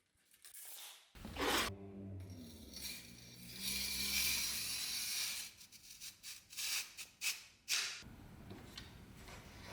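Metal parts of a saber being handled, with a short metallic ring in the first few seconds. Around the middle there is a rasping scrape lasting a couple of seconds, followed by a string of sharp clinks and knocks.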